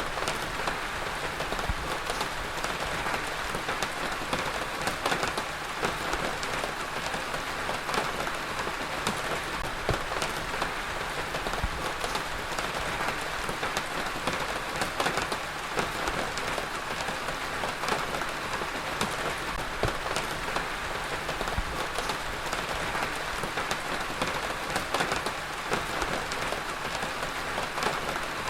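Heavy rain falling steadily on a surface, a dense even hiss with many separate drop impacts ticking through it.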